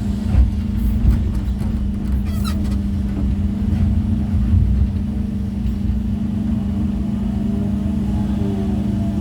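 Excavator diesel engine running steadily while placing natural stones, with a few sharp knocks of stone or bucket in the first few seconds.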